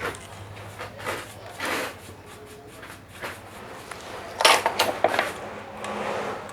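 Scattered clicks and knocks of tools and parts being handled during circuit-board repair work, loudest in a quick cluster about four and a half seconds in, over a faint steady low hum.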